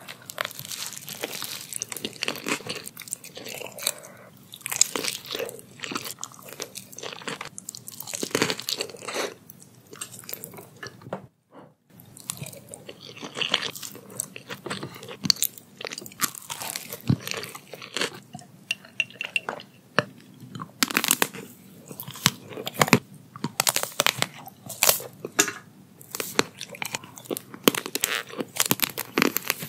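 Close-miked crunching and chewing of spicy deep-fried fish, rice and lettuce wraps: many crisp bites and wet chews one after another, with a brief cut to silence about eleven seconds in.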